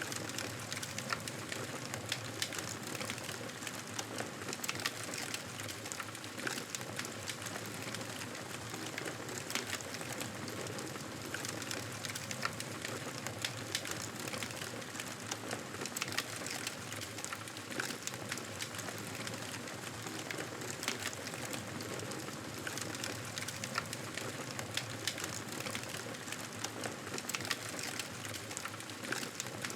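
Wood fire crackling in a fireplace: a steady hiss with frequent small sharp pops and snaps throughout.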